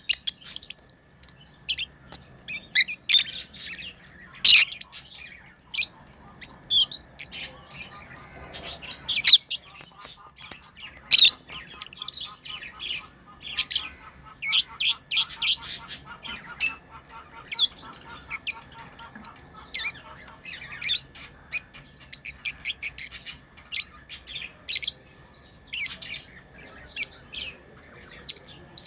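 Pet lovebirds chirping: a constant, irregular run of sharp, high-pitched chirps, with a stretch of rapid chattering in the middle.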